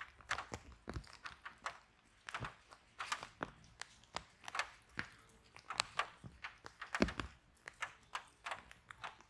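Fire in a fireplace crackling: irregular sharp pops and snaps several times a second over a faint hiss, with a louder pop about seven seconds in.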